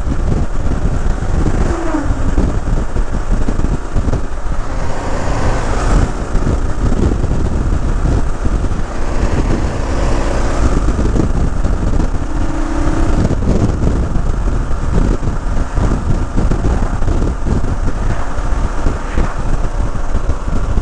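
Heavy wind rumble on the microphone over engine and road noise from a motorcycle riding at speed. Brief pitch changes about two seconds in and again near the middle.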